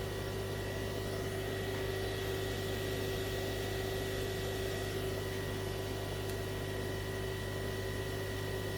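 Steady electrical hum and hiss with a faint, constant high tone, unchanging throughout: background noise of running bench equipment.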